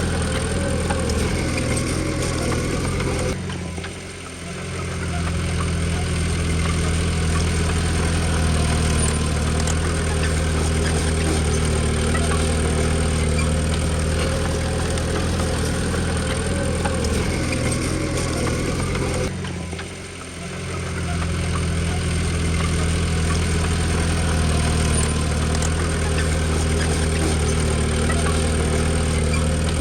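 Diesel engine of a Komatsu D20P bulldozer running steadily with a deep drone. The sound drops off briefly twice, about 4 and 20 seconds in, then returns to full.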